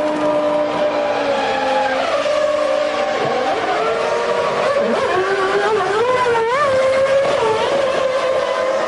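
Formula One cars' 3.0-litre V10 engines running, several engine notes at once. About five seconds in, one engine's pitch rises and falls a few times as it is revved.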